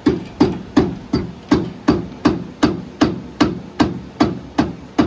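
Hammer blows struck in a steady, even rhythm, about three a second, each with a short ring.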